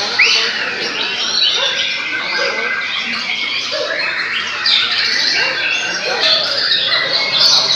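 Several caged murai (white-rumped shama) songbirds singing at once, a dense, continuous tangle of overlapping loud whistles, glides and chattering trills.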